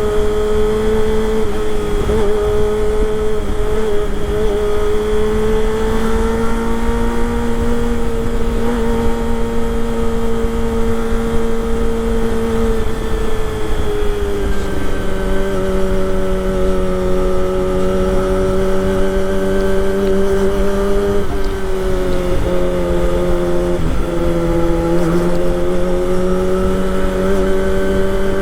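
Kawasaki Ninja ZX-25R's 250 cc inline-four engine running at steady high revs under way, with a high, even engine note. Its pitch sags gradually about halfway through and dips briefly twice near the end, over a low wind and road rumble.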